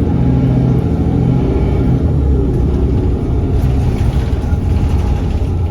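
Transit vehicle running in motion, heard from inside: a steady low rumble with a motor tone that rises in pitch as it speeds up.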